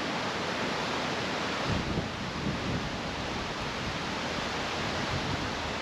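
Strong gale-force wind rushing across the microphone, a steady noise with heavier low gusts about two seconds in.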